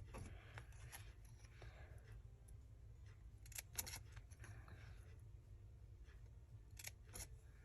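Mostly near silence with faint paper rustling and a few light sharp clicks, the sounds of paper crafting work such as cutting or handling paper.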